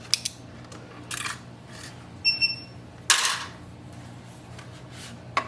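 Plastic parts inside an inkjet printer being handled during disassembly: a few sharp clicks and short scrapes, a brief high squeak a little over two seconds in, and a louder scrape about three seconds in.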